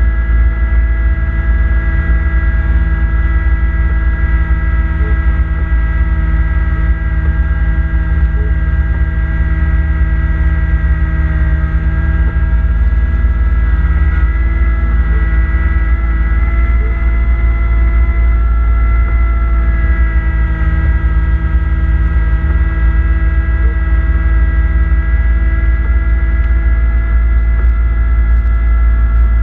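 Kubota B2650 compact tractor's three-cylinder diesel running steadily at working speed while driving a front-mount snowblower, a loud constant drone.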